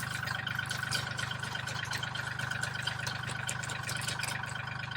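An engine idling steadily: a low even hum with a thin steady whine above it, and faint scattered ticks.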